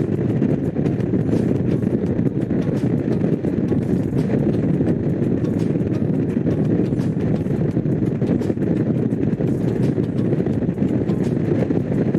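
Honda CX500's liquid-cooled V-twin engine running at a steady cruise under way, mixed with wind and road noise rushing past.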